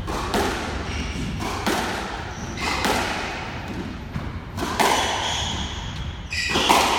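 Squash rally: the ball is struck by racquets and hits the court walls in sharp knocks, often in quick pairs, coming about every second or so.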